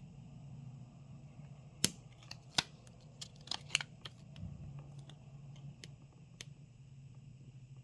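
Sharp clicks and taps of a plastic pry tool and small repair tools against a smartphone's glass and frame, about a dozen, most of them between two and four seconds in, over a low steady hum.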